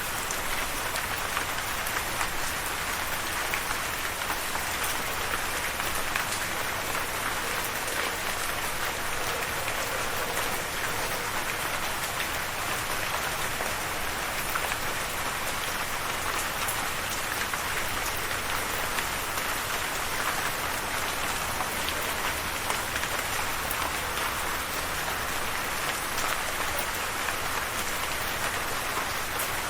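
Steady rain falling on a surface: an even, unbroken hiss of many small drops pattering.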